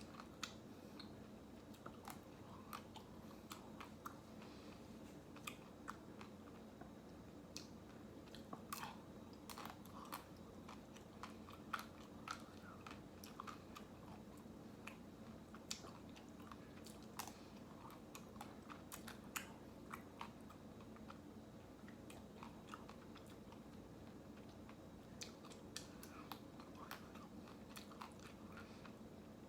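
Faint close-up sounds of someone eating ice cream: small bites, chewing and crackly clicks that come irregularly, over a steady low hum.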